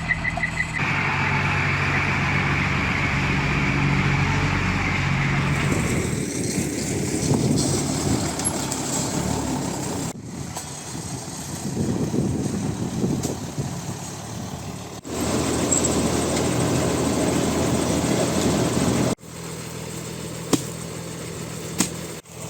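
A 6x6 military cargo truck's engine idling steadily, heard in several edited segments that cut in and out abruptly.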